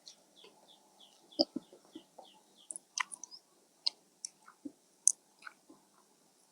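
Close-up chewing and wet mouth smacks while eating rice noodles, in short irregular clicks. A bird chirps in a quick series of short falling notes, about five a second, during the first two seconds or so.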